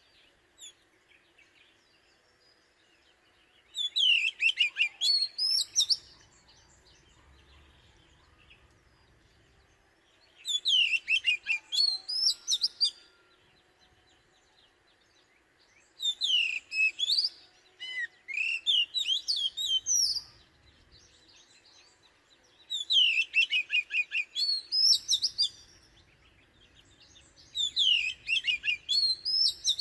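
Oriental magpie-robin singing: loud, varied whistled song phrases of about two seconds each, repeated every five or six seconds with short pauses between.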